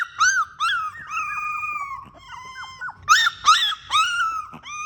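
Young Labrador puppies whining and crying: a run of short, high yelps that rise and fall, alternating with longer drawn-out whines of about a second each.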